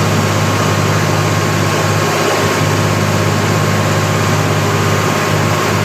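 Kohler 230 kW diesel generator running at steady speed: a constant loud drone with a low hum and an even mechanical rush over it.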